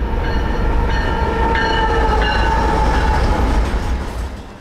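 Train running by: a heavy low rumble with high, steady ringing tones that come and go over it, fading out near the end.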